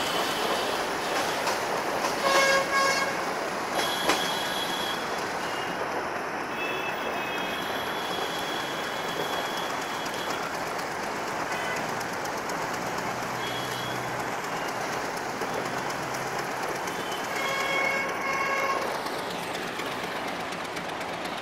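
Meter-gauge passenger coaches rolling past with a steady rush of wheel and rail noise. A horn sounds in short toots about two seconds in and again near the end.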